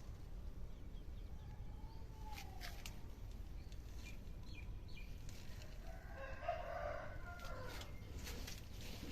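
A rooster crows once, about six seconds in, a drawn-out call of about two seconds. Under it runs a steady low rumble with scattered faint clicks.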